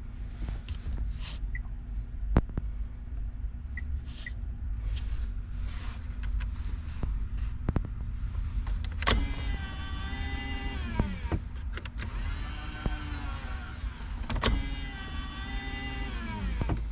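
A small electric motor whining in two runs of about two seconds each, its pitch bending down and up, over a steady low rumble, with scattered clicks before it.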